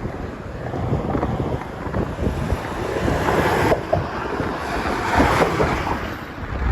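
Wind buffeting the microphone: a gusty, rumbling noise that swells and eases, strongest about halfway through.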